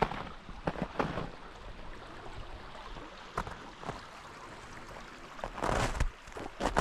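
A small stream running steadily, with the hiker's footsteps on frozen snow: a few scattered steps early on and a louder run of steps near the end.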